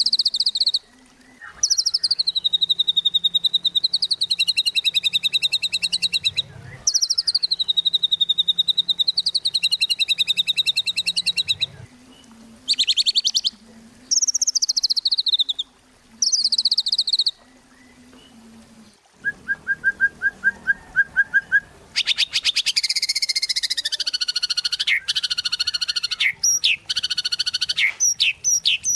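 White-rumped shama (murai batu) singing in full song: long high phrases of fast trilled notes that fall and rise, split by short pauses, a quick run of short repeated notes about two-thirds through, then a dense rapid warbling phrase near the end.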